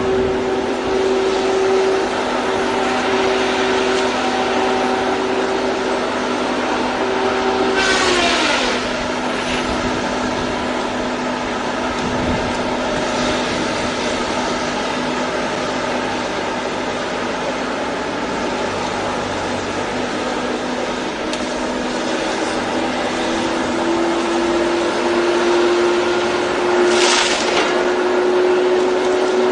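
A machine's engine running with a steady drone. Its pitch drops about eight seconds in and climbs back up gradually over the last few seconds, with two brief hissing swells.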